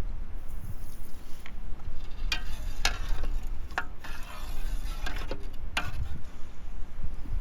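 A cooking utensil scraping and knocking against a pot, about six sharp strokes spread unevenly, over a steady low rumble.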